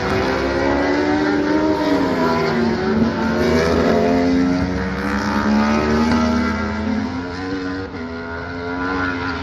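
Several World Superbike race bikes' engines at high revs, overlapping, their pitch falling and rising as they brake, change gear and accelerate through the corner. The sound eases a little near the end.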